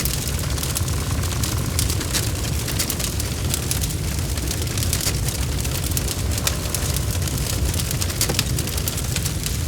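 Wood fire burning in a fireplace: a steady low rumble of flames with frequent, irregular crackles and pops from the logs.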